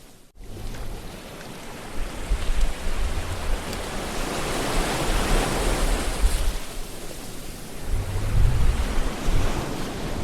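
Ocean surf: waves washing in, the rush of water swelling and easing over several seconds, with low rumbles about eight seconds in. The sound drops out briefly just after the start.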